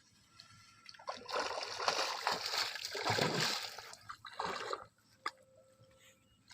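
Water splashing and sloshing for about three seconds, starting about a second in, then a shorter splash just before five seconds.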